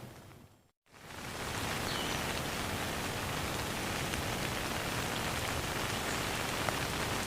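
Steady rain falling. Under a second in it fades out to a moment of silence, then fades back in and continues evenly.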